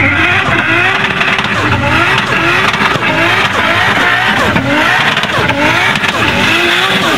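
Nissan Skyline GT-R doing a burnout: the engine is revved hard again and again, rising in pitch about twice a second, over the hiss of spinning rear tyres.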